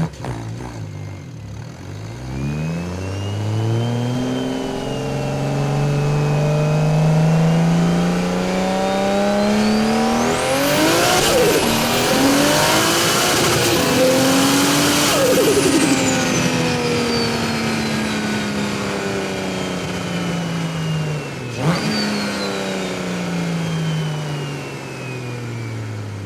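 Single-turbo BMW N54 inline-six engine pulling hard, its pitch climbing steadily for about ten seconds while a turbo whistle and hiss rise over it. The engine then winds down slowly, with a brief sharp break in the sound near the end.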